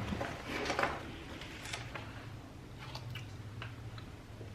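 Faint rustling and light taps of grocery packages being handled, over a low steady hum.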